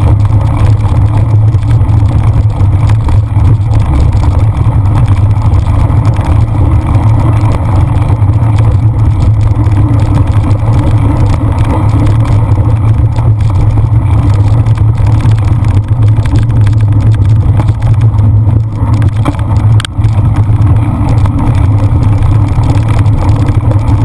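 Loud, steady low rumble of wind buffeting the microphone of a camera riding on a cyclocross bike at race pace, with one brief click about twenty seconds in.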